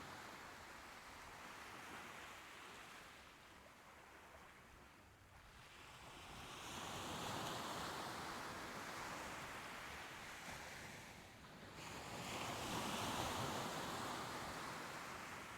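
Soft ocean waves washing in and drawing back in slow swells, with two louder surges, one about halfway through and one near the end.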